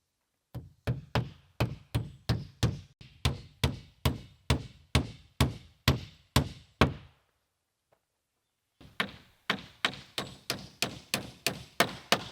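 Rapid, regular knocking blows, about three a second, each a dull thud with a short ring. They come in two runs with a pause of about two seconds near the middle.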